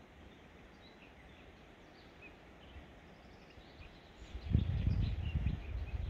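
Small birds chirping and singing faintly over a low, steady outdoor background. About four seconds in, an uneven low rumble swells up suddenly and becomes the loudest sound.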